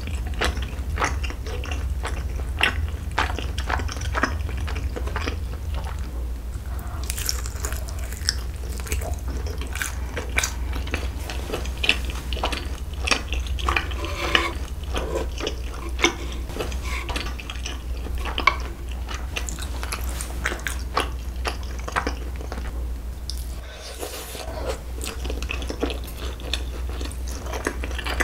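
Close-miked eating: biting and chewing skewered sausage and rice cakes coated in creamy sauce, with frequent small clicks of the wooden skewer and utensils against the pan and board, over a steady low hum.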